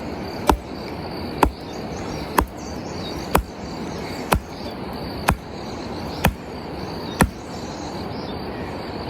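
Sharp knocks repeating evenly about once a second, eight in all, stopping about seven seconds in, over a steady background hiss.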